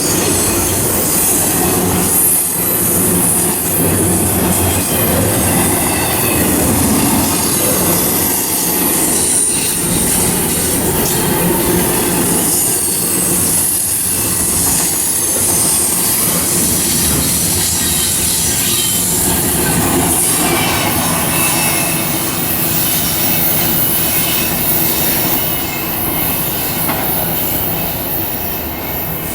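A train passing close by on the tracks: a steady, loud rumble of wheels on rail, with high-pitched wheel squeal wavering over it. It eases off a little near the end.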